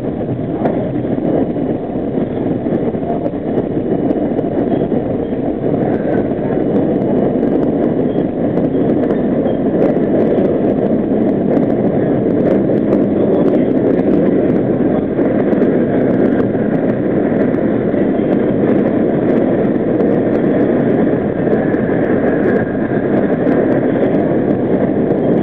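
R40 'Slant' subway car running at speed through the tunnel: a steady rumble of steel wheels on rail and traction motors, swelling slightly midway, with a faint high whine near the end.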